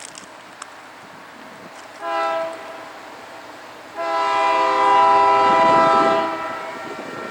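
Diesel locomotive air horn on a passing freight train: a short blast, then a longer, louder blast about two seconds later, over the steady running noise of the train.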